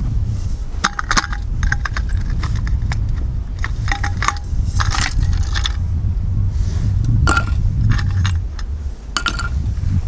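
Light metallic clinking and clattering: a dozen or so short, irregular strikes, some ringing briefly, over a steady low rumble.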